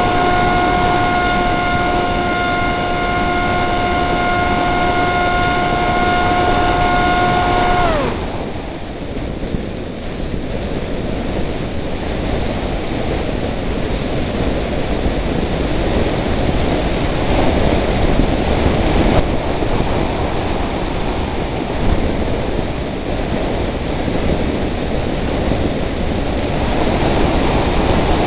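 Electric motor and propeller of a Dynam Hawksky RC plane whining at a steady pitch, then winding down and stopping about eight seconds in as the throttle is cut. After that there is only heavy wind noise buffeting the microphone.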